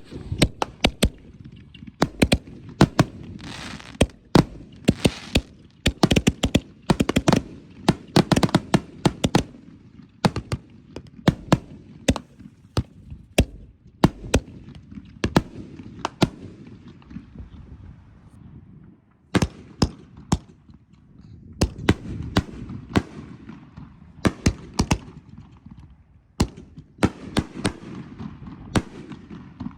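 Fireworks going off: a long run of sharp bangs and crackling reports over a low rumble, often in quick clusters, with a brief lull about two-thirds of the way through before the bangs pick up again.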